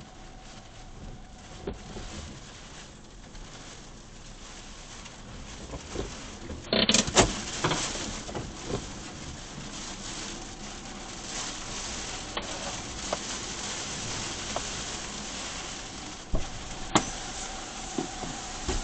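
Heavy typhoon rain pattering steadily. It gets louder about seven seconds in, with a sharp surge and occasional knocks.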